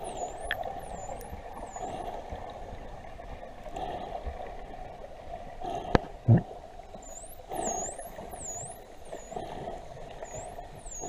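Dolphins whistling underwater: a run of repeated, high up-and-down whistles at the start and again in the second half, over a steady underwater hiss. A sharp click and a low thump come about six seconds in, the loudest moment.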